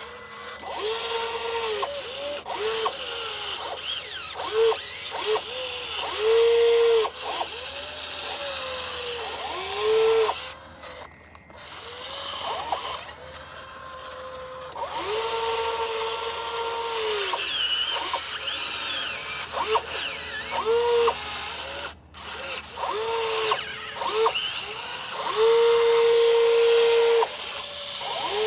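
Small electric motors of radio-controlled scale construction models whining in repeated short bursts, each rising in pitch as it starts and falling as it stops, with a few longer runs.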